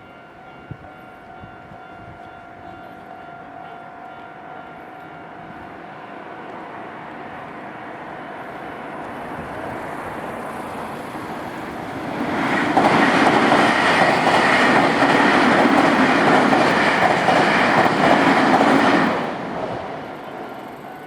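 Nankai Main Line electric train approaching a level crossing and running past, growing louder for about twelve seconds. It is loudest for some six seconds as the cars clatter by, then fades. A steady ringing warning bell sounds under the quieter parts at the start and end.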